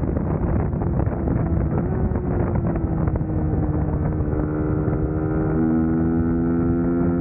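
Suzuki GSX-S150's single-cylinder four-stroke engine running under way, with wind buffeting the microphone. The engine note eases down slightly over the first few seconds, then holds steady.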